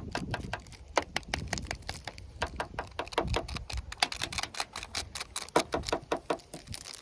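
Tannerite mix granules poured from a torn pouch into a mixing container, making a rapid, irregular patter of sharp ticks as the grains hit.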